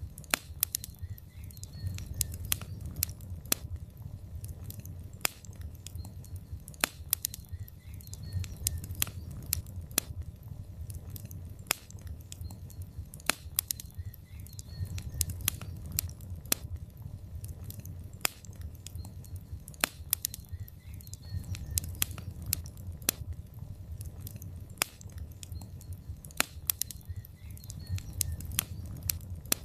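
Logs burning in a fireplace, crackling with many irregular sharp pops over a low steady rumble of the flames.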